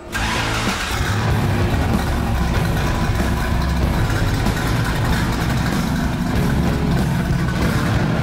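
1967 Mercury Cougar's 504 cubic inch Ford FE big-block V8, naturally aspirated, running loud through its 3-inch exhaust with electric cutouts and Flowmaster Super 44 mufflers, with a choppy, rumbling note.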